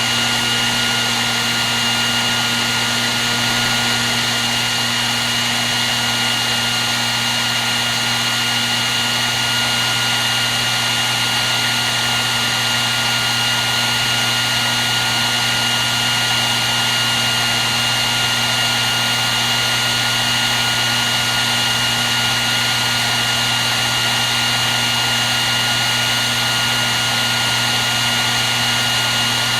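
Hair dryer running steadily on one setting: a constant rush of blown air with a high, steady motor-fan whine and a low hum.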